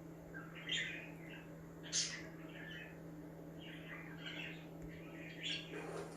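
Budgies chirping and chattering in short, scattered calls, with one sharper, louder call about two seconds in, over a steady low hum.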